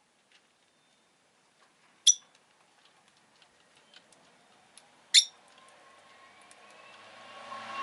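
Peach-faced lovebird giving two short, sharp chirps, about two and five seconds in, with faint clicks in between. In the second half, the noise of a passing vehicle swells, getting louder toward the end.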